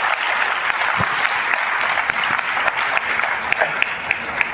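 Audience applauding, the clapping thinning out into scattered claps near the end.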